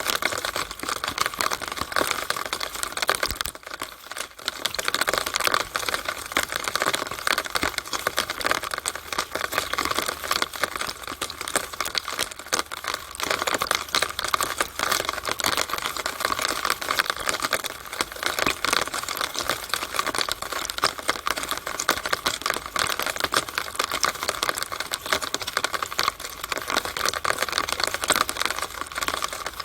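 Rainwater dripping and trickling in a downspout: a dense, continuous patter of fine drips and splashes, with a brief lull about four seconds in.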